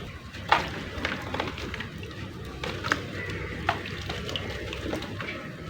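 Crumbled clay being worked into a wet mud paste with water, a steady wet squishing and crumbling with a few sharp cracks, the loudest about half a second in.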